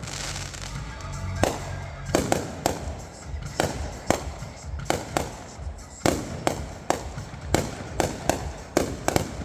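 Fireworks going off in a rapid, irregular barrage of sharp bangs, about two a second.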